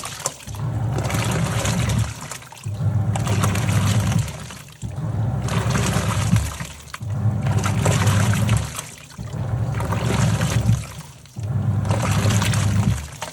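Top-loading washing machine agitating a wash load: the motor hums in spells of about a second and a half, driving the pulsator first one way and then the other, with water sloshing and splashing in the tub and short pauses each time it reverses.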